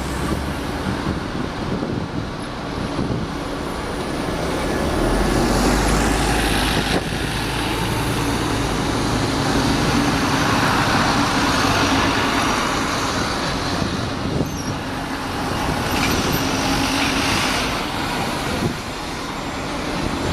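Road traffic with heavy vehicles such as buses running and passing: a continuous engine drone with a deeper rumble swelling about five seconds in.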